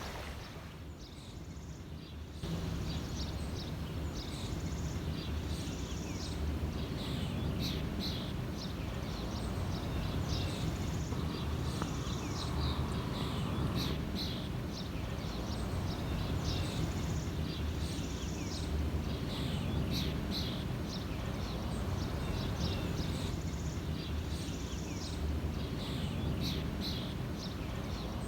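Many short bird chirps and twitters over a steady low rumble, starting about two seconds in after a quieter stretch.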